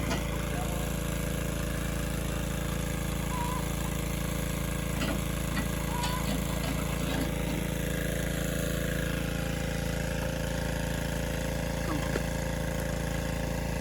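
Excavator's diesel engine running steadily, an even, unchanging drone.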